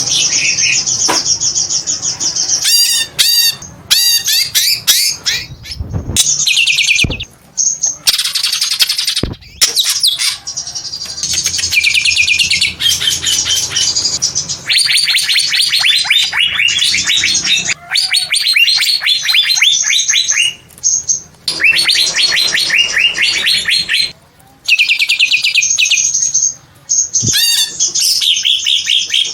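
Greater green leafbird (cucak ijo) singing a long, fast stream of chirping and chattering notes, broken by a few short pauses.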